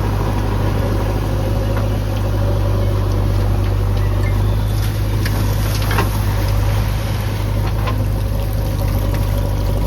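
Large diesel engine of heavy machinery running steadily at constant speed, with a few short knocks and clicks over it.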